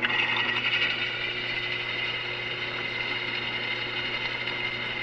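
Electric drill running steadily with a freshly sharpened bit cutting into the workpiece, a constant motor hum under a higher-pitched cutting sound that is loudest in the first second.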